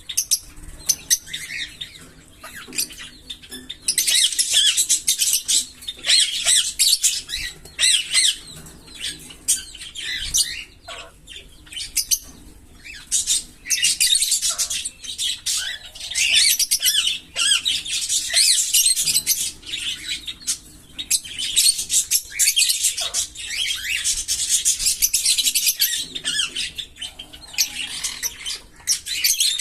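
A pair of green Fischer's lovebirds singing: rapid, high, chattering 'giggle' songs that run on for several seconds at a time, broken by short pauses.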